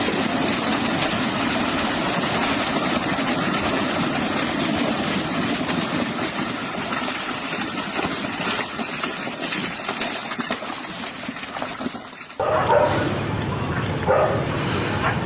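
A steady, loud rushing noise with no clear pitch. It cuts off sharply about twelve seconds in, and a dog then barks several times.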